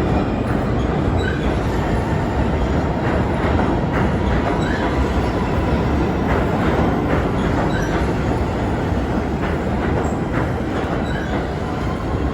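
New York City Subway train running through the station, a steady loud rumble of wheels on rail with scattered clicks over the joints.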